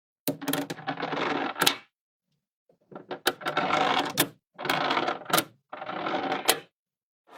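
Small magnets clattering and clicking together as they are handled, in four separate bursts with sharp snaps among them.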